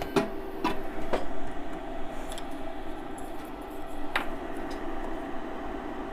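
A steady hum with a few sharp light clicks or taps, two close together near the start and another about four seconds in.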